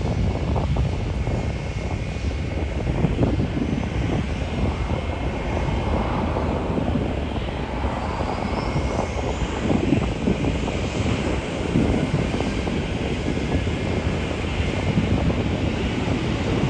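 Airliner jet engines rumbling steadily as a plane moves at the airport, with wind buffeting the microphone. A faint rising whine comes in about eight seconds in.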